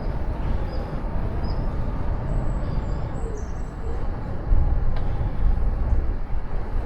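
Wind rushing and buffeting on the microphone of a moving bicycle, a steady low rumble, with a few faint high bird chirps through the first half.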